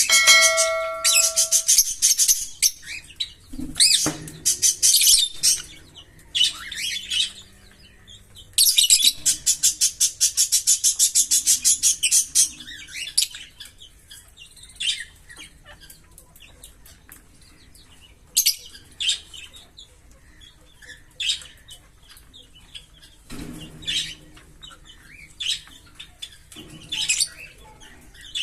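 Pair of green Fischer's lovebirds chirping: rapid runs of high, sharp chirps (the 'giggle' song), the longest lasting about three and a half seconds, starting about nine seconds in, then scattered single calls.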